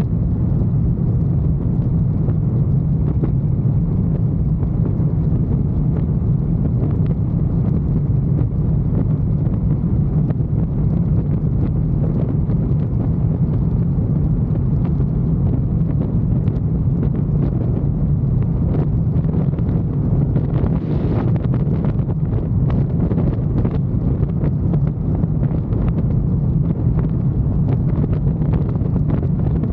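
Motorcycle under way at road speed: a steady low rush of wind over the microphone mixed with the bike's engine running. A brief brighter swell rises above it about two-thirds of the way through.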